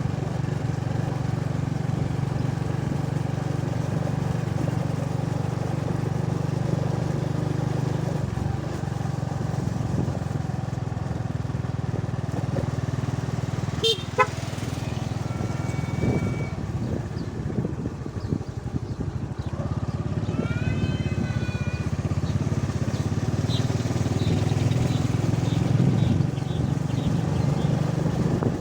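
Vehicle engine running steadily while on the move. A sharp click about halfway through, and a few short high whistling notes a little after it.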